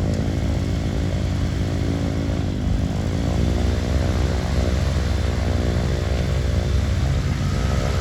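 Piston engine of a light propeller aircraft running, a steady drone that dips briefly in pitch about two and a half seconds in.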